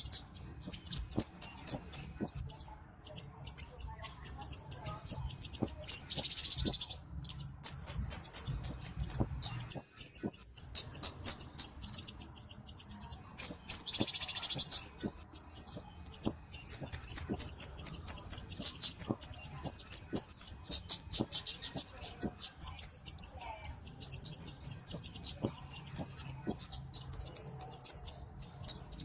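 Flowerpecker (Indonesian kemade or cabe-cabean) calling: long runs of quick, high, thin chip notes, several a second, broken by short pauses.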